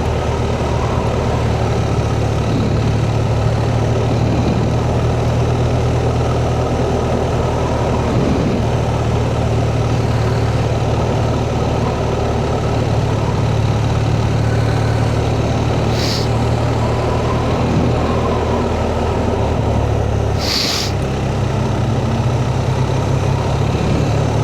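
Motorcycle engine running at a steady pace while riding up a steep, narrow road, with road and wind noise. Two brief hissing bursts sound about two thirds of the way in.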